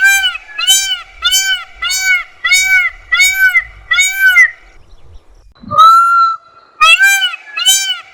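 Indian peafowl (peacock) calling: a run of loud, evenly spaced honking notes, about one and a half a second, then a pause of about a second, one longer drawn-out note, and another run of the same notes.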